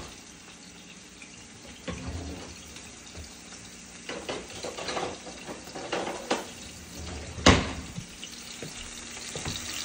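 Tuna steaks sizzling in oil in a nonstick skillet over a gas flame, a steady hiss, broken by a few scattered clicks and knocks, the sharpest about seven and a half seconds in.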